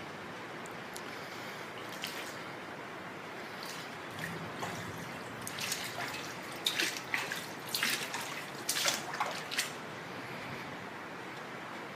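Floodwater on a garage floor splashing and sloshing in a run of irregular splashes, strongest from about the middle of the stretch, over a steady hiss.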